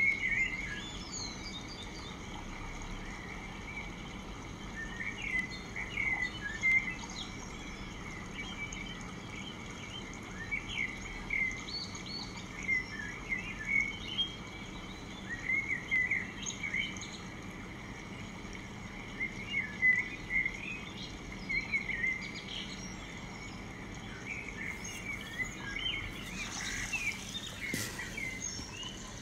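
Small birds chirping with short, repeated calls, scattered throughout over a steady low background hum. A brief burst of hissy noise comes near the end.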